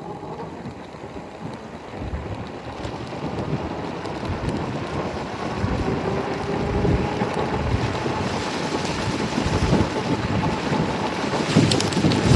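Wind rushing and buffeting on the microphone of a moving e-bike, growing louder as the bike picks up speed.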